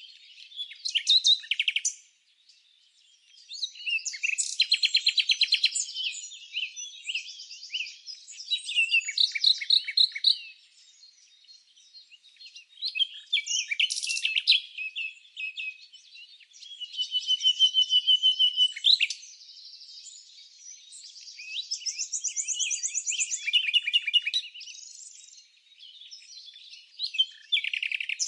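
Songbirds chirping and singing: phrases of rapid, high-pitched trilled notes and quick chirps, each a second or two long, following one another with short pauses between.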